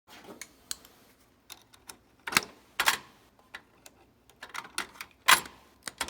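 Irregular series of sharp clicks and clacks from hand tools and small metal parts being handled while working on boiler control wiring, with three louder knocks, two about half a second apart and one near the end.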